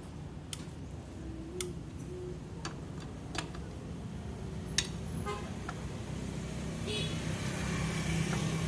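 Scattered sharp metallic clicks and clinks over a steady low rumble that grows louder near the end, with a short horn-like tone about seven seconds in.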